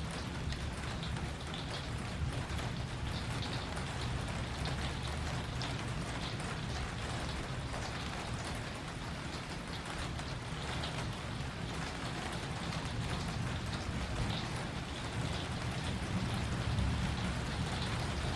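Steady rain falling, with many individual drops ticking close by, over a low rumble that swells a little near the end.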